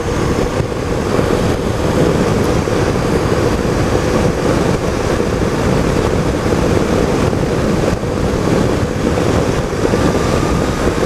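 Riding noise on a 2013 BMW R1200GS at speed: a steady low rush of wind over the microphone with the motorcycle's engine and tyre drone beneath it.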